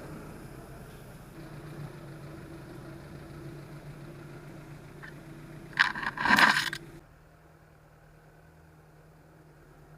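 An engine running steadily with a low hum. About six seconds in comes a loud, scraping clatter lasting about a second, and then everything drops suddenly much quieter.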